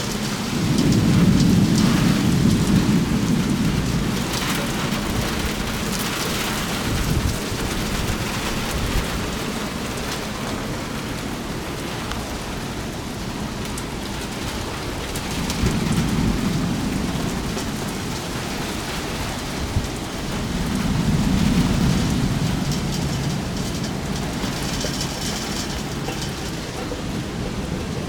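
Steady rain falling in a thunderstorm, with rolling thunder swelling up three times: loudest just after the start, again about halfway through and once more a few seconds later.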